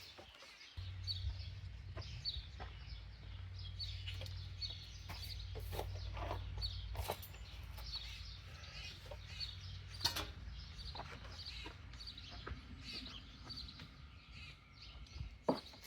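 Chickens clucking, with short calls repeating every half second or so over a steady low hum that starts about a second in, and a sharp knock about ten seconds in.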